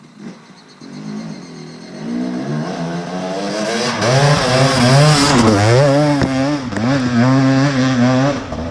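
Off-road motorcycle engine revving hard under load on a steep hill climb, its pitch climbing and wavering with the throttle and growing louder as the bike comes closer.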